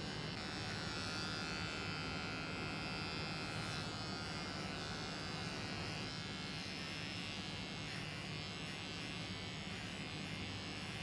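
Electric hair clippers running steadily with a continuous buzz while shaving a cat's fur.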